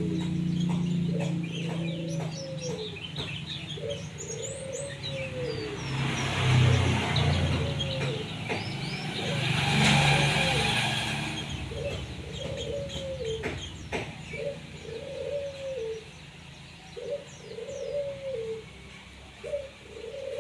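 Birds calling: a dove gives a low coo over and over, about once every second and a half, while small songbirds chirp in short high notes. In the middle, the noise of a passing vehicle swells and fades.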